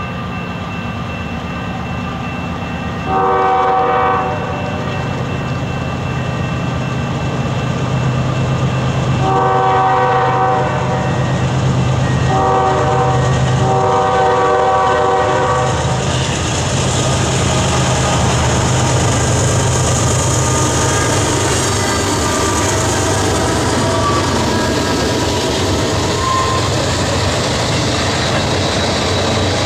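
Diesel freight locomotive sounding its multi-tone horn four times, long, long, short, long, the standard warning pattern for a grade crossing, as it approaches with its engine getting louder. From about halfway through, the locomotive and its container and autorack cars pass close by with steady wheel-on-rail noise.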